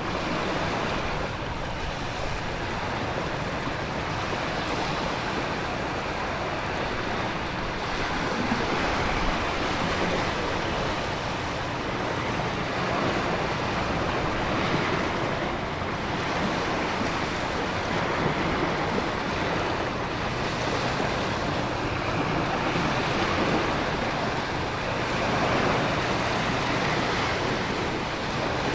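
Storm ambience: a dense, steady rush of heavy rain and wind with ocean surf that swells and falls back every few seconds.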